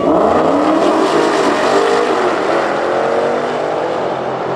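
Two supercharged 6.2-litre Hemi V8 Dodge Challengers, a Demon and a Jailbreak, accelerating at full throttle down a drag strip just after the launch. Engine pitch climbs and drops at each gear shift, and the sound slowly fades as the cars pull away.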